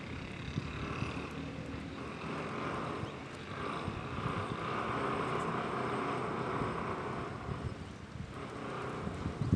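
Distant engine noise of a passing vehicle, swelling over a few seconds and then fading, with wind rumbling on the microphone.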